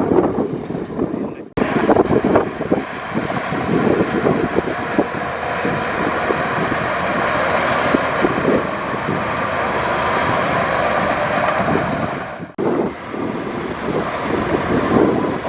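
Heavy diesel earthmoving machinery working, a loud, steady engine with rough mechanical noise. The sound breaks off abruptly twice, about a second and a half in and near the end, at cuts in the recording.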